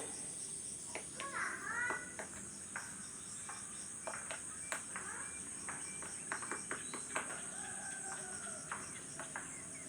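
A steady, high-pitched chorus of insects, with scattered irregular sharp taps and a few short chirping bird calls about a second in and again near the end.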